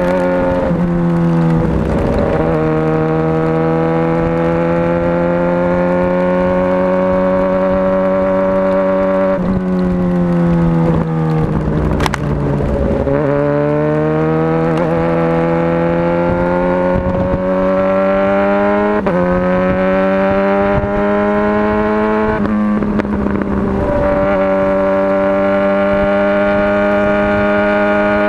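Motorcycle engine running under way, its pitch climbing slowly and dropping back several times, with a single sharp click about twelve seconds in.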